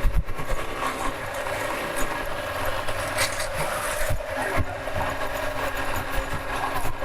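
Motorcycle engine running steadily while riding on a street, with the noise of the road around it and a few short knocks.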